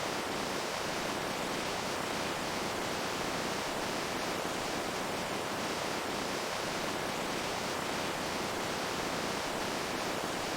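Running water making a steady, even rush with no breaks or changes.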